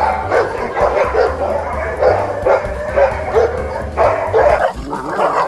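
Dogs barking and yipping over one another in a fast, continuous scuffle.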